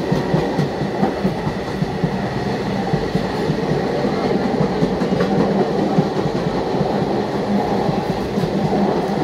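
Indian Railways express train's coaches running past at speed without stopping: a steady rumble with rapid, continuous wheel clatter.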